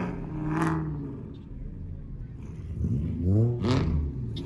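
A car engine being revved twice: a short blip about half a second in, then a longer rev near the end that rises and falls, over a steady low engine rumble.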